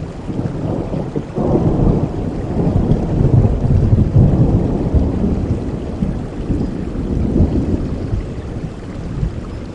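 A long rolling peal of thunder over steady rain. It swells about a second and a half in, is loudest around three to four seconds, and rumbles away over the next several seconds.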